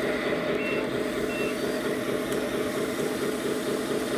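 Sound module of a 1/14-scale RC truck playing a simulated diesel truck engine through its small speaker, a steady fast rattle. Two faint short high beeps come in the first second and a half.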